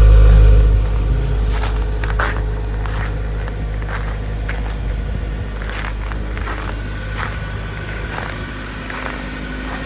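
2011 Kia Sorento engine idling shortly after a cold start in sub-freezing weather, a steady low hum that is louder for about the first second and then settles lower. Scattered light clicks over it.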